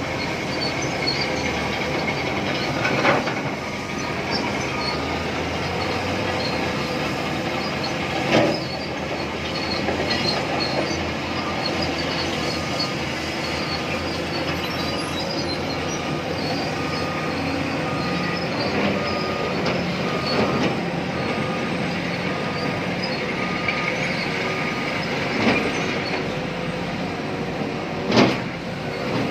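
Large hydraulic excavator (Tata Hitachi Zaxis 870 LCH) working while loading a tipper truck: a steady diesel engine and hydraulic drone with a few sharp metallic clanks, and a short beep repeating through the middle.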